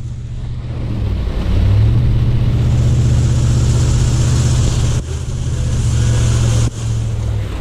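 Ram 1500 pickup truck driving in the rain. The engine hum dips in pitch about a second in, then picks up again, as in a gear change. A steady hiss of rain and wet road runs under it.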